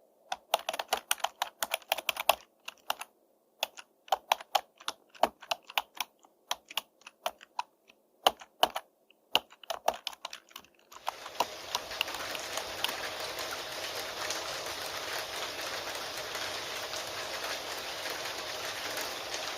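Computer keyboard typing: irregular runs of sharp keystrokes with short pauses between them. About halfway through, the typing gives way to the steady hiss of rain.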